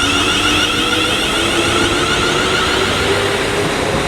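Class 350 Desiro electric multiple unit pulling away, its traction motors and inverters whining and slowly rising in pitch as it gathers speed.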